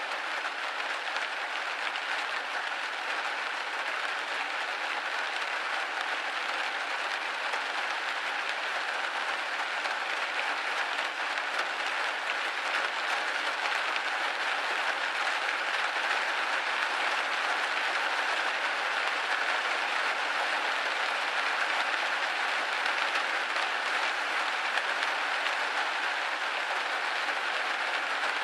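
Steady rain hitting a window pane, a dense even hiss of drops that grows slightly louder partway through.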